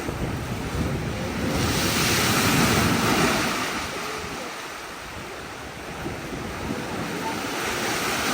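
Pacific Ocean surf washing in, swelling to a rush about two to three seconds in and again near the end, with wind buffeting the microphone.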